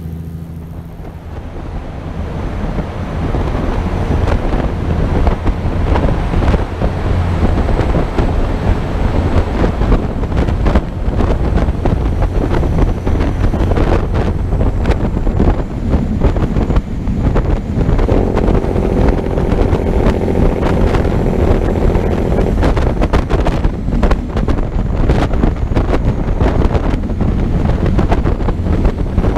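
Heavy wind buffeting the microphone over a low vehicle rumble. A steady pitched hum joins for a few seconds about two-thirds of the way in.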